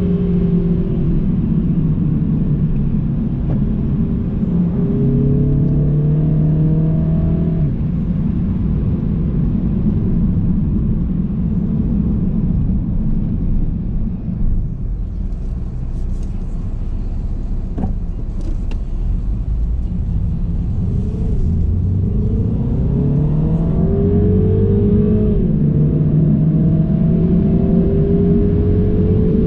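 MINI car's engine and road noise heard inside the cabin, as a steady rumble. The engine note rises in pitch as the car accelerates through the gears, eases off in a quieter stretch midway, then climbs again near the end.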